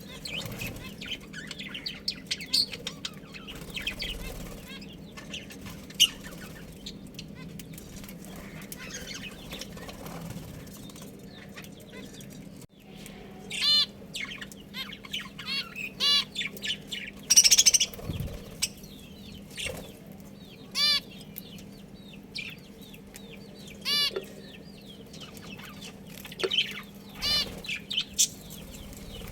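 Budgerigars chirping: a busy run of short, high chirps, then several louder, clearer calls every few seconds in the second half.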